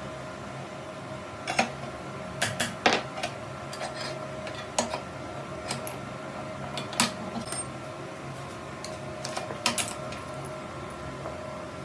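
Irregular sharp metallic clinks and knocks, about a dozen of them, from parts or hand tools being handled in a metal workshop, over a steady machine hum.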